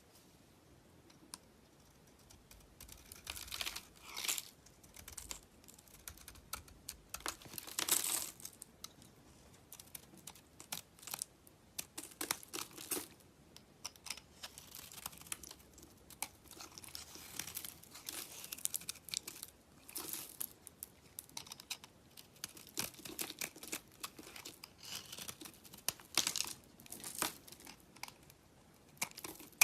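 Dry bar soap being cut and crushed, a run of crisp crunching and crackling scrapes with short pauses between them, the loudest about eight seconds in.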